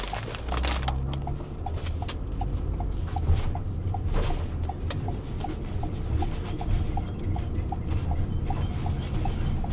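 Car driving, heard inside the cabin: a low road and engine rumble with an even ticking about two or three times a second.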